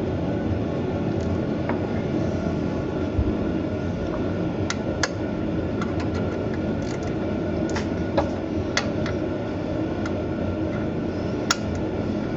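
Steady rumbling background noise with scattered sharp clicks and clinks of hand tools working on a boat engine's bell housing.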